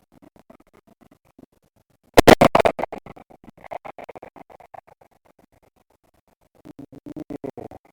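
Rapid crackling and rustling of movement through frost-stiffened vegetation close to the microphone, with a loud dense burst about two seconds in and another near the end.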